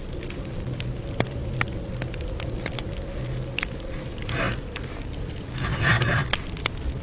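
Campfire crackling: a steady low rumble of flames with scattered sharp pops, and two short, louder rustling bursts about four and six seconds in.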